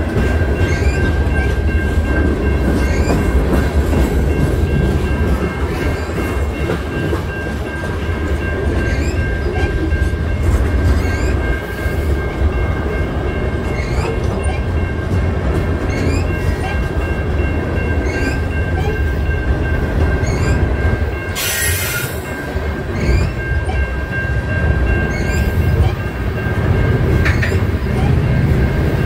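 CN freight train rolling past: a steady low rumble of locomotives and cars, with a thin, steady high squeal over it and faint regular clicks from the wheels. A brief hiss about two-thirds of the way through.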